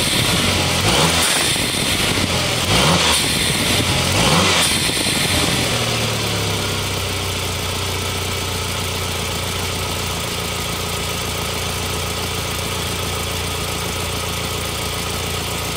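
Turbocharged engine blipped about three times, with a rush of air around each blip, then settling to a steady idle. Heard at the open trumpet of a Forge Split-R dump valve that the owner says is leaking.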